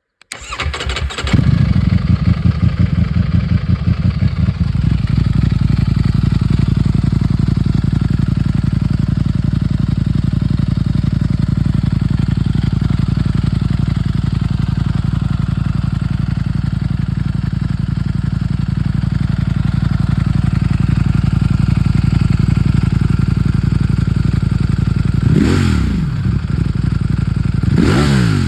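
Ducati Streetfighter V4's V4 engine starting up and settling into idle, rougher for its first few seconds and then steady. It is revved briefly twice near the end.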